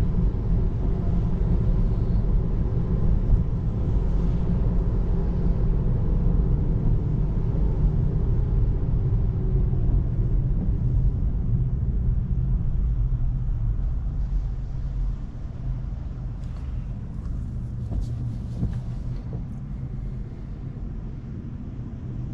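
Steady low rumble of tyre and road noise inside a Tesla Model 3's cabin on a wet road, getting quieter after about fourteen seconds.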